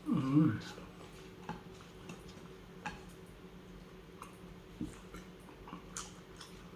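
A short hummed vocal sound at the start, then sparse small clicks and smacks of someone eating: mouth sounds and spoon or plate ticks while eating spicy tuna sisig.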